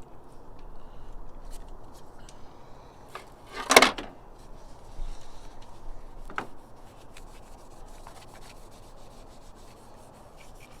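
Rubbing and scraping of hands and tools working on a car battery terminal, with small clicks and one brief louder scrape about four seconds in.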